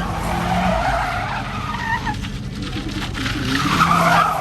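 A car's spinning tires squealing and screeching on pavement, the screech wavering in pitch over a steady engine hum, swelling loudest near the end.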